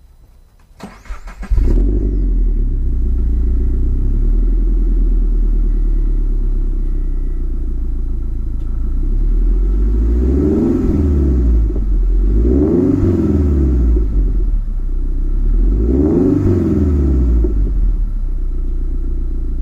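A 2018 Subaru BRZ's flat-four boxer engine, breathing through an unequal-length header, cat-delete front pipe and Megan Racing cat-back exhaust, is cranked and starts about a second and a half in. It settles into a low, loping idle and is then blipped three times, the pitch rising and falling with each rev.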